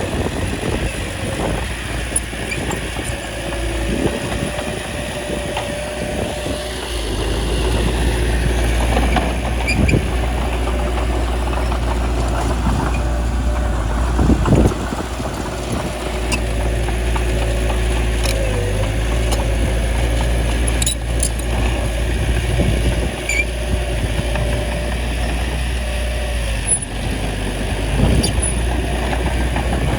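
Small bulldozer's diesel engine running steadily while working, with a few sharp knocks along the way.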